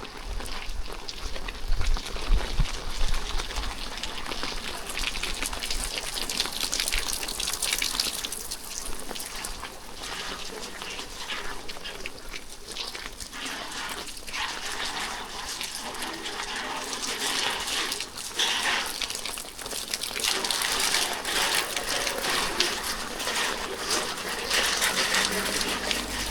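Steady rain falling: a dense patter of drops with splashing water, and a low rumble in the first few seconds.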